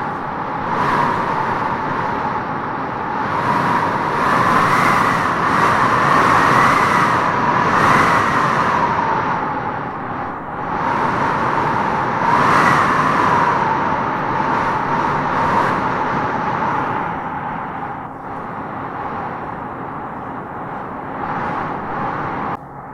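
Wind howling in gusts through trees: a whistling tone that rises and falls over a steady rushing hiss, swelling strongest a few seconds in and again about halfway, then dropping abruptly near the end.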